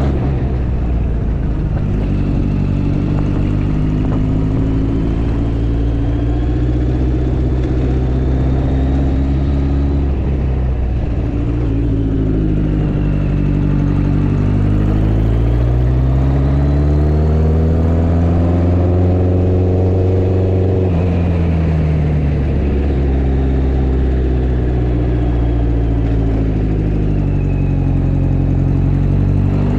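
Motorcycle engine running while riding, its pitch rising and falling with the throttle; it climbs steadily through the middle and then drops back.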